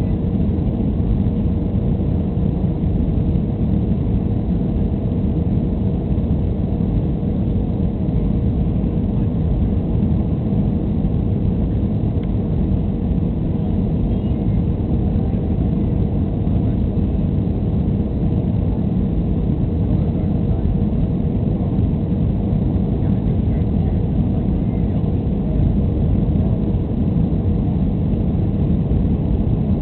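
Steady cabin noise inside a Boeing 737-300 airliner: the CFM56 jet engines and airflow making an even, deep rush with a faint constant hum, unchanging throughout.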